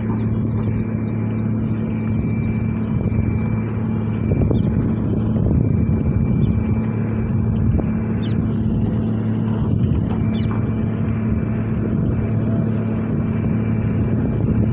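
An engine running steadily with an even low hum, with a few faint short high chirps over it.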